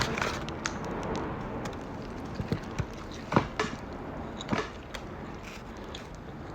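A person biting into and chewing a homemade double-patty cheeseburger close to the microphone, with several sharp mouth clicks scattered through the chewing.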